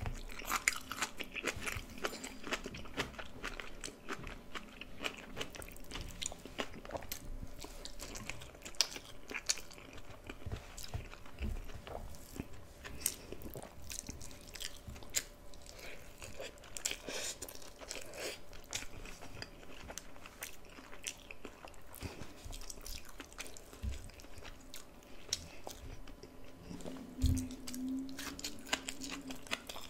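Close-miked eating: steady chewing and biting with many small clicks and wet mouth noises, as a meal of tomato-sauce jack mackerel, fries, bok choy and rice is eaten.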